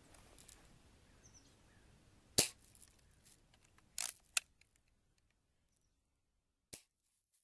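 A BB air gun firing: four sharp snaps, the loudest about two and a half seconds in, two close together around four seconds, and the last one near the end.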